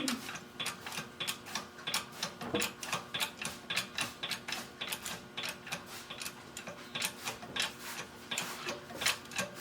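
Rapid, irregular light metallic clicks and ticks, several a second, as a thin metal part is pressed down over a form block to bend it, over a faint steady hum.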